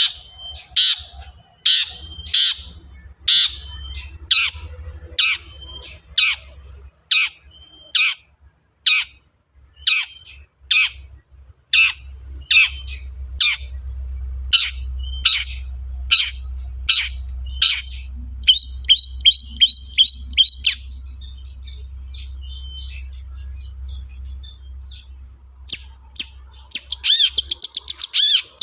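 Long-tailed shrike singing: a long series of short, harsh calls repeated about one and a half times a second, then a quick run of notes and, near the end, a fast chattering run. A faint low hum sits underneath.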